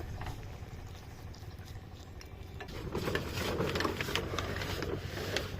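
Farm water-pump engine running, a steady low hum with irregular ticking and pattering that grows louder about three seconds in.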